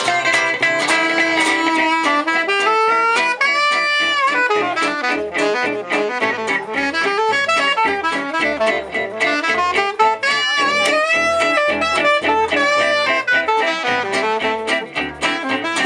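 Live jazz manouche band playing an instrumental solo: a lead instrument carries a sliding melodic line over steady rhythm guitar strumming and a walking bass.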